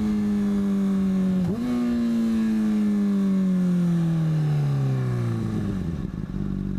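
Sport motorcycle engine decelerating, with a quick throttle blip about a second and a half in for a rev-matched downshift. Its pitch then falls steadily as the bike slows, settling to a steady lower tone near the end after the downshift into first.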